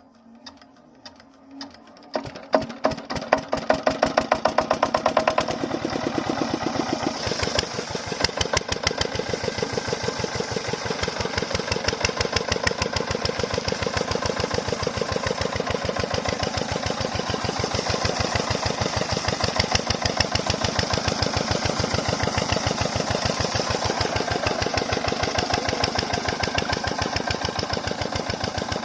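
Single-cylinder 8 hp diesel water-pump engine starting: a few slow knocks build into firing about two seconds in, and the engine then settles into a steady, rapid knocking beat.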